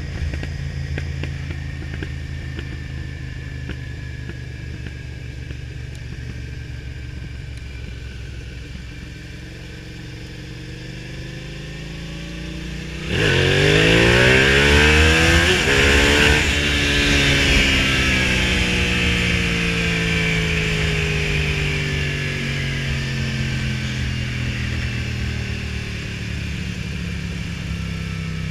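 2006 Suzuki SV650S's 645 cc V-twin running at low revs with wind noise for about 13 seconds. Then the throttle opens hard in second gear: it suddenly gets loud and the pitch rises for about three seconds. After that the revs fall slowly as the throttle is rolled off, with exhaust backfire pops.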